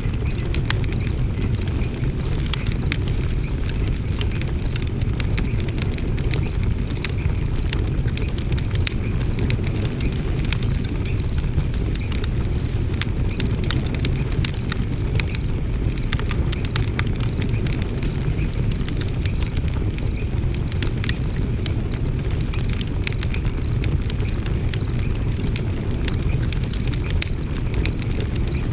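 Wood fire crackling and popping in a steel fire pit, with irregular sharp snaps over a steady low rumble. A regular high chirping runs under it.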